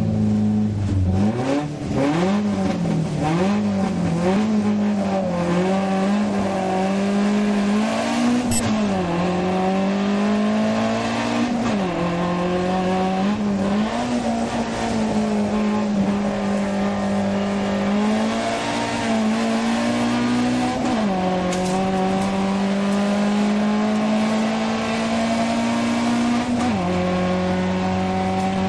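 Alfa Romeo GT 2000 Veloce's twin-cam four-cylinder engine at full throttle, heard from inside the cabin. The engine note climbs steadily and falls sharply at each upshift, several times over, as the car accelerates up a hillclimb course.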